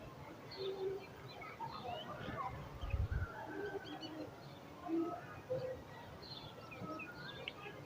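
Background birds chirping and calling in many short, scattered notes, with a low thump about three seconds in.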